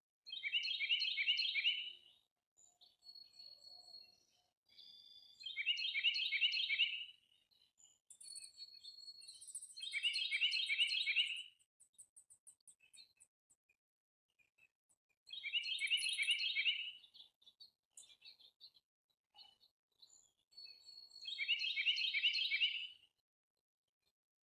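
A songbird singing the same short, rapid song phrase five times, about every five seconds. Other birds chirp faintly between the phrases, with a thin, very high, fast trill after about eight seconds.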